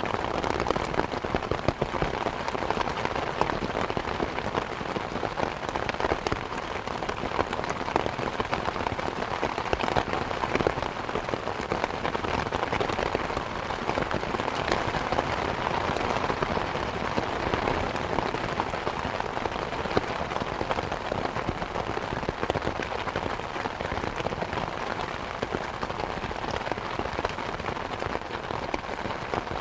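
Steady rain falling on surfaces, a dense even patter with many individual drops ticking through it.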